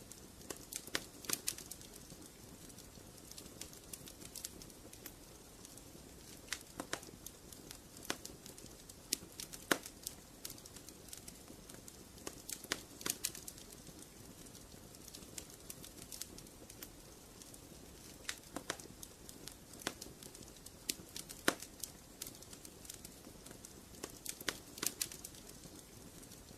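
Wood fire crackling in a fireplace: irregular sharp pops and snaps, some louder than others, over a soft steady hiss of the flames.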